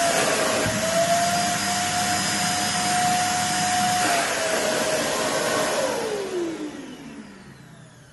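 Total Tools TT PS-32/1600 construction vacuum cleaner running with a steady whine, then switched off about six seconds in, its motor winding down with a falling pitch as the noise fades.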